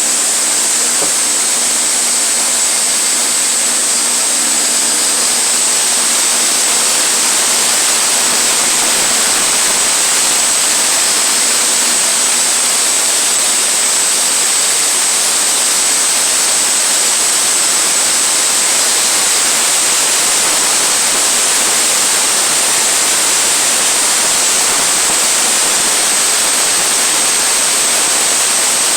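Sawmill blade cutting through a log: a loud, steady hiss, with a faint low hum under it that fades out in the first several seconds.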